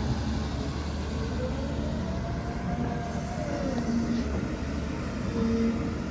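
Excavator's diesel engine running steadily under load, with a tone that rises and then falls in pitch once in the middle.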